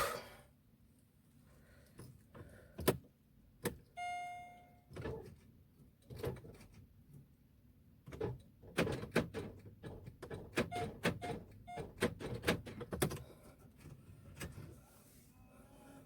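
A string of knocks and clicks from working in and around a car, with one short electronic chime about four seconds in and a dense run of clicking and knocking later on.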